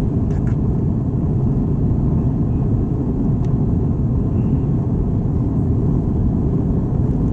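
Steady low rumble of an Airbus A321's cabin noise heard from inside the cabin, with a couple of faint clicks.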